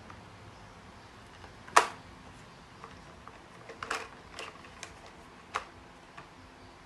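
A few sharp separate clicks and taps, the loudest about two seconds in, with several smaller ones a couple of seconds later.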